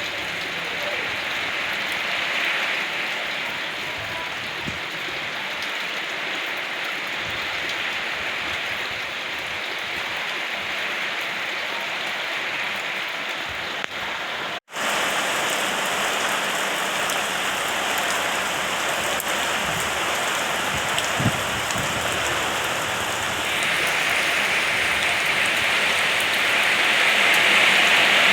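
Rain falling in a steady hiss. It cuts out for an instant about halfway through, comes back a little louder, and swells again near the end.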